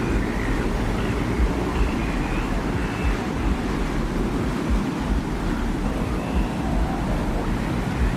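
Steady desert wind with a heavy low rumble, part of a designed ambient soundscape, with a few faint, brief whistling tones above it.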